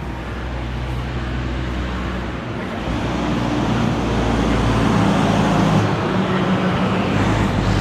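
A car engine running with a low, steady drone, growing louder about two and a half seconds in.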